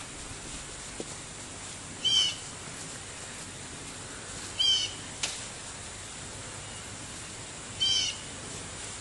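A songbird calling three times, each a short phrase of quick falling notes, about every three seconds, over a steady outdoor background hiss.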